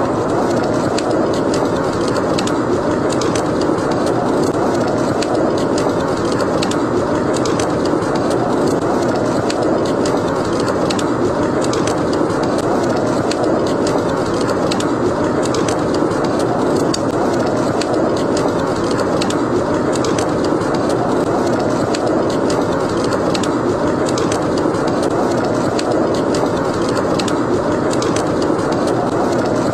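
Snowstorm wind rushing steadily, with a wood fire crackling over it in frequent small, sharp pops.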